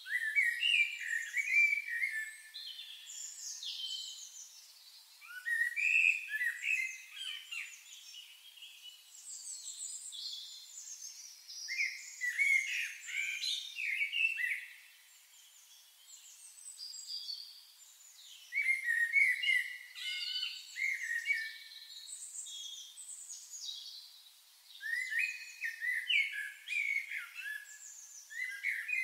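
Songbirds singing: short phrases of quick chirps and trills, a phrase every six seconds or so, with fainter chirps between.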